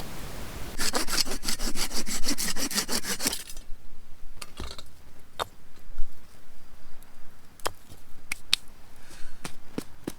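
Hand saw cutting wood in quick back-and-forth strokes for about two and a half seconds, then a scatter of light knocks and clicks.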